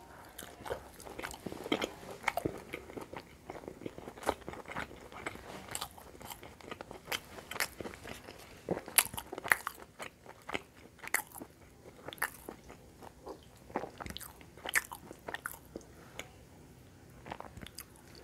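Close-miked mouth sounds of someone chewing roti dipped in paneer curry: irregular wet smacks and sharp clicks.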